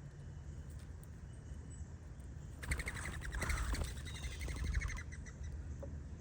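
A small bird chirping in a quick run of repeated high notes for about two seconds, starting a little under three seconds in. A steady low rumble lies under it.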